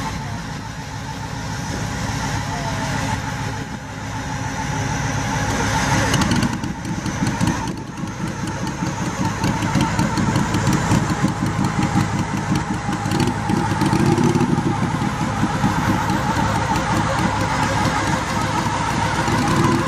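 Garden tractor engine running, getting louder about six seconds in, dipping briefly, then running loud and steady.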